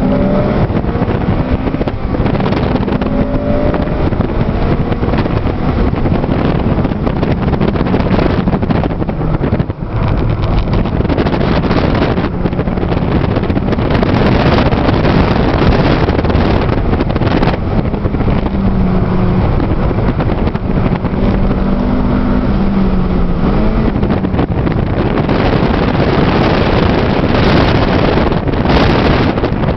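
2008 Honda Civic Si sedan's four-cylinder engine heard from inside the cabin on track laps. It is loud and its pitch rises and falls as the car is driven, under a steady rushing noise.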